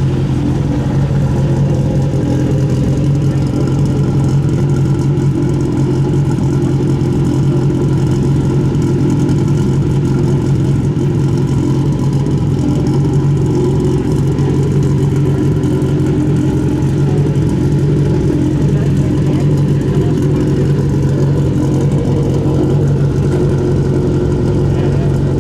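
Rally car engine idling steadily, a low, even engine note with no revving.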